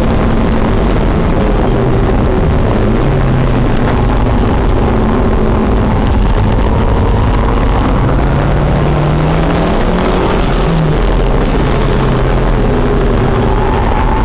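Car engine heard from inside the cabin, running hard and loud, its pitch climbing as it revs and dropping again around a gear change or a lift for the corner.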